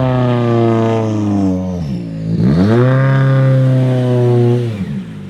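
Ford Fiesta WRC rally car's 1.6-litre turbocharged four-cylinder engine at high revs on a gravel test stage: its pitch sags and drops off about two seconds in, then it picks up again at once, holds high, and falls away near the end.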